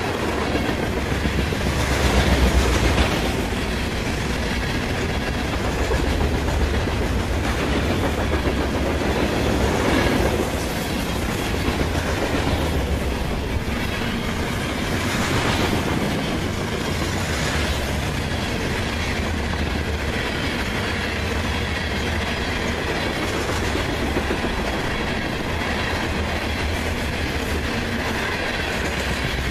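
Open-top hopper cars of a CSX manifest freight train rolling past close by: a steady rumble of steel wheels on rail with clickety-clack clatter, a little louder for a moment a couple of seconds in and again around ten seconds in.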